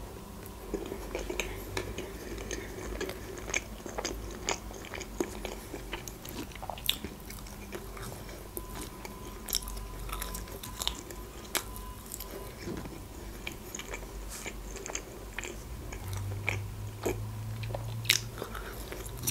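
Close-miked chewing and biting of a burger and soft French fries, with many short wet mouth clicks and smacks.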